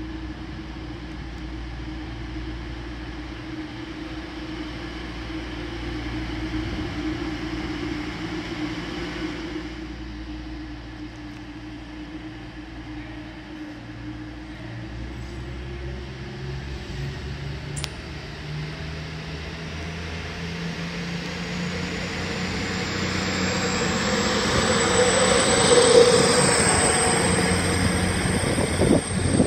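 East Midlands Railway Class 222 Meridian diesel multiple unit approaching and passing close by. Its underfloor diesel engines grow louder and rise in pitch as it pulls away, and a high whine climbs near the end.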